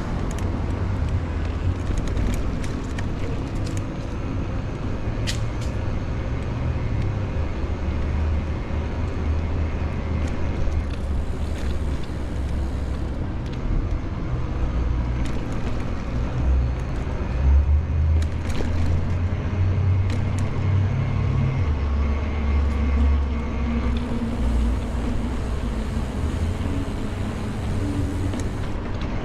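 City road traffic heard from a moving bicycle, with a low rumble that swells and eases and a few scattered clicks.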